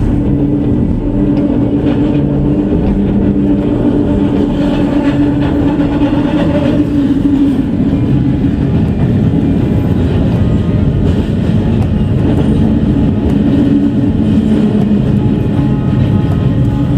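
Seoul Subway Line 2 train running at speed: a steady rumble with a held hum.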